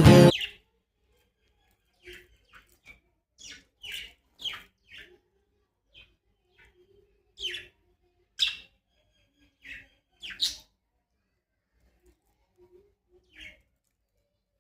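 Small pet birds giving about a dozen short, high chirps at irregular intervals, with quiet gaps between them.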